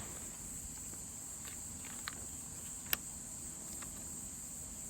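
Steady high-pitched chorus of crickets trilling, with a few faint clicks and one sharp click about three seconds in.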